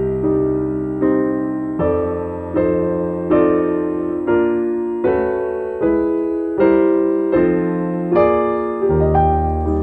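Piano music: chords struck about every three-quarters of a second, each fading away, over held bass notes.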